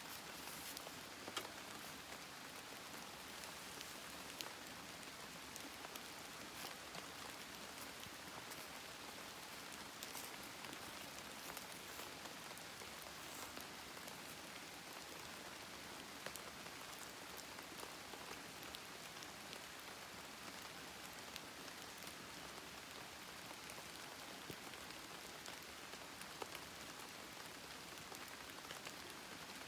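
Wood campfire crackling: a steady hiss with frequent small pops and snaps scattered throughout.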